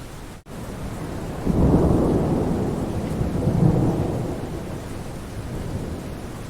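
Steady rain falling, with a low rumble of thunder that comes in suddenly about a second and a half in, swells and then fades away over a few seconds. The sound drops out for an instant about half a second in.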